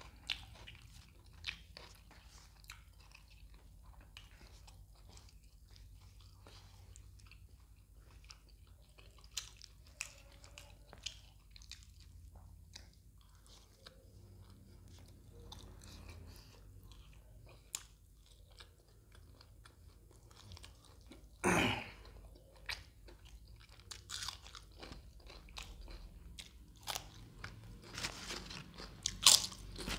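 Close-miked chewing of food with scattered wet clicks, then one loud crunch a little past two-thirds through and a run of loud crisp crunches near the end as a papad is bitten.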